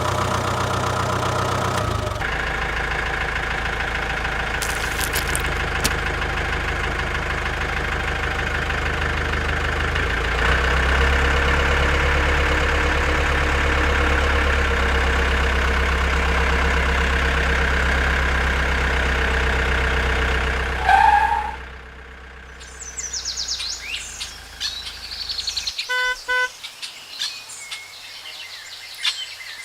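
Tractor engine running steadily and picking up about two seconds in and again about ten seconds in, then cutting out about 21 seconds in. Birds chirp after that, with two short horn beeps a little later.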